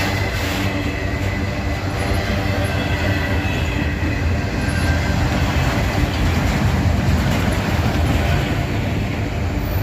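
Loaded autorack freight cars rolling past: a steady rumble of steel wheels on the rails, with a faint high wheel squeal in the first half.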